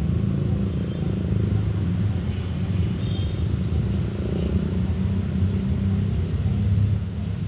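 A steady low rumble, with a few faint short high chirps in the middle.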